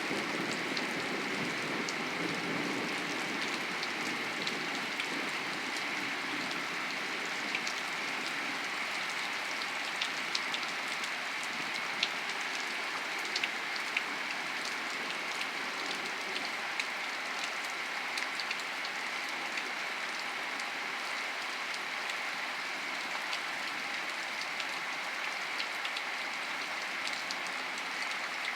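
Steady rain falling, with many individual drops ticking sharply through the hiss. A low rumble of thunder fades away over the first few seconds.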